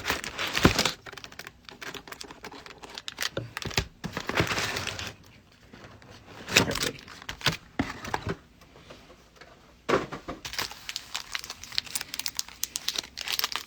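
Plastic trading-card pack wrapper crinkling as it is handled, with light clicks and taps of cards being sorted, in short irregular bursts.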